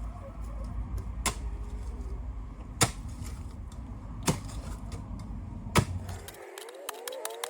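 Four sharp strikes of a digging tool into stony ground, about one every second and a half: hard going because there is rock just under the soil. Near the end the low background rumble stops suddenly and bird calls begin.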